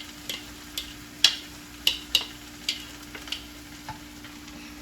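Fried noodles with chicken and vegetables being stirred and tossed in a wok: a utensil clacks and scrapes against the pan in irregular strokes over a low sizzle, with a steady low hum underneath.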